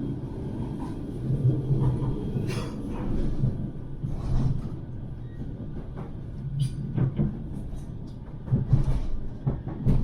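Manchester Metrolink tram (Bombardier M5000) running between stops, heard from on board: a steady low rumble of wheels on rail with scattered clicks and knocks.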